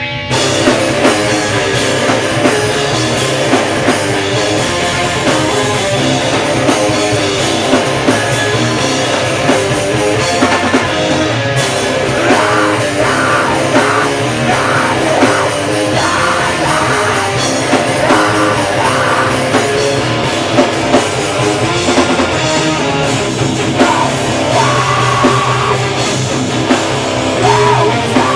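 A metalcore band playing live at full volume: distorted guitars, bass and a drum kit, with vocals. The full band kicks in right at the start after a quieter guitar passage.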